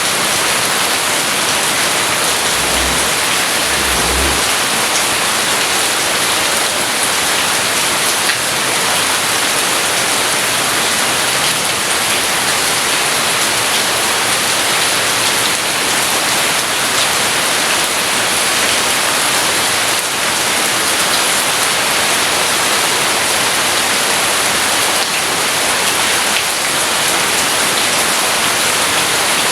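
Steady heavy rain, a dense even hiss of drops falling on surfaces, with two faint brief low rumbles about three and four seconds in.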